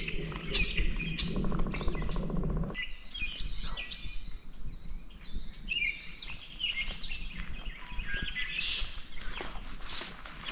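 Several songbirds chirping and singing, with overlapping short calls and trills. For the first few seconds a low rumble runs under them, then cuts off suddenly about three seconds in.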